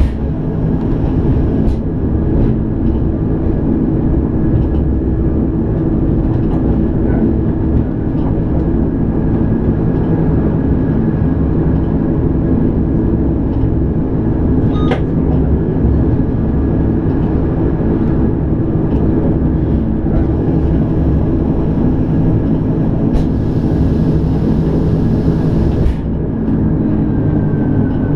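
Electric rack-railway train heard from inside its cab: a steady, loud running drone with a steady whine from the motors and rack gearing, and a single click midway. Near the end the whine falls in pitch as the train slows.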